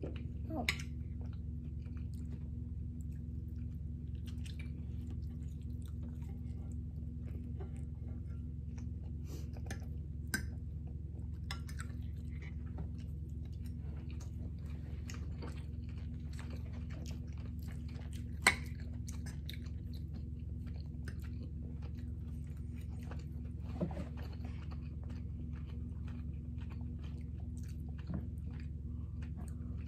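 Close-miked chewing and mouth sounds of seafood being eaten, with a few short sharp clicks scattered through, over a steady low hum.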